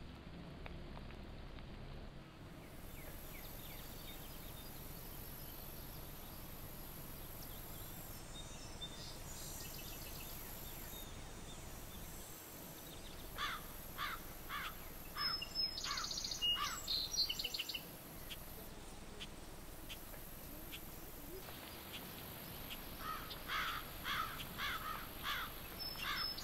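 Steady hiss from a trail camera's microphone, with birds calling a run of short descending notes, about two or three a second, midway through and again near the end.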